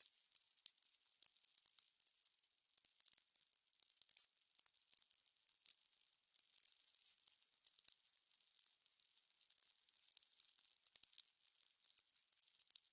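Fire crackling: a faint, thin hiss with frequent irregular snaps and pops.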